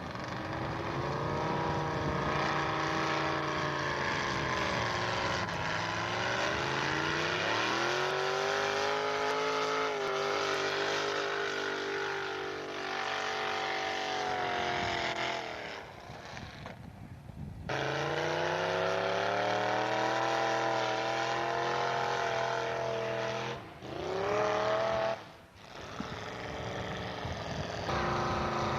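Pulling truck's engine running hard under load, its pitch climbing, holding and sagging as it drags the sled. The sound breaks off briefly twice, once about two-thirds of the way through and again near the end, then the engine picks up again.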